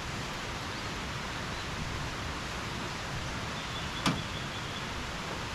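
Steady hiss of rain falling, with a single sharp tap about four seconds in.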